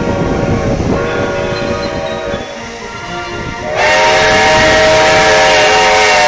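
Steam locomotive whistle held at the train's departure, several pitches sounding together with hissing steam; it jumps sharply louder about four seconds in and holds.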